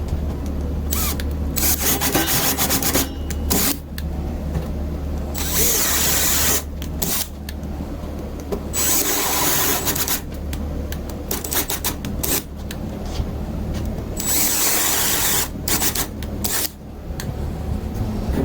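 Power drill boring a bolt hole, its motor running steadily under load while the cutting noise comes and goes in uneven stretches.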